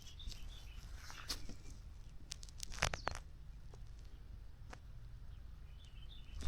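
Scattered light clicks and snaps, with a cluster of sharper ones about three seconds in, over a faint outdoor background.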